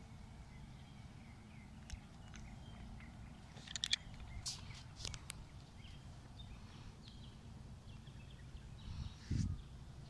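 Outdoor ambience with a steady low rumble, and a few short, sharp bird calls around the middle, several in quick succession about four seconds in. A dull thump comes near the end.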